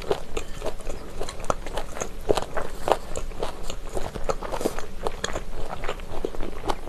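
Chewing of spicy chicken feet: crunching of the cartilage with wet mouth sounds, several irregular crunches a second.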